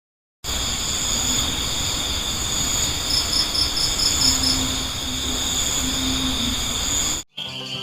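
Crickets chirping: a dense, steady, high-pitched insect chorus, with a quick pulsing chirp of about four beats a second standing out about three seconds in. It starts after a brief gap and cuts off abruptly near the end.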